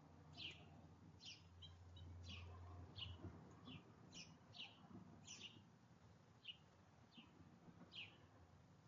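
Faint bird chirping: about a dozen short, high notes, each falling quickly in pitch, given at irregular intervals, over a low hum during the first few seconds.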